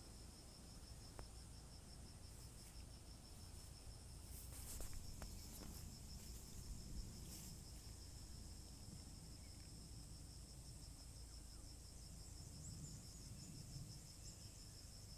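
Insects, crickets or cicadas, trilling in a steady high-pitched chorus, faint, with a few light clicks in the middle.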